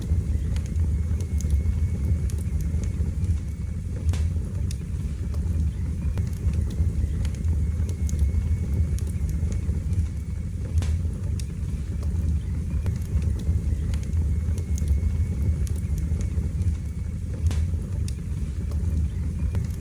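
Wood fire burning in a fireplace: a steady low roar of flames with scattered, irregular sharp crackles and pops.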